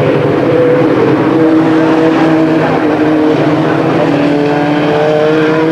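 Several race truck engines running at racing speed on a short oval, their pitches rising and falling and overlapping as the trucks pass.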